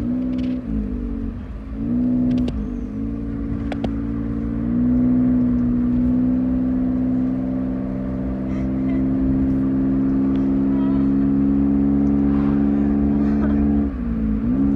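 A small car's engine droning loudly inside the cabin while driving, its pitch dipping and rising briefly a few times near the start and again near the end, and otherwise holding steady.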